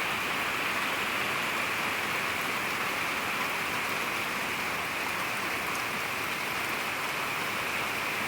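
Heavy rain falling steadily, a dense even hiss with a few separate drops ticking.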